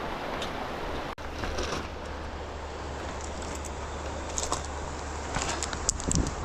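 Steady rushing noise with a low rumble, as of wind on the microphone while riding, with scattered sharp clicks and rattles that come more often near the end.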